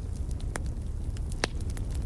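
Wood fire crackling in a fireplace: many small ticks and two sharper pops, about half a second and a second and a half in, over a steady low rumble.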